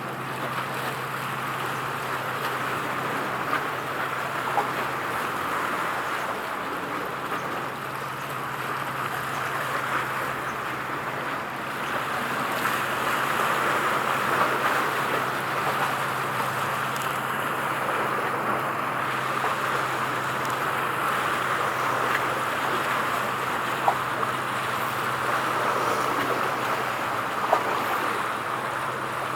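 Steady outdoor rushing noise with a low, even hum underneath and a few faint ticks.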